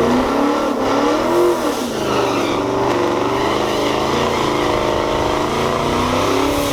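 Car engine running hard, its pitch rising and dropping in the first two seconds, then holding fairly steady.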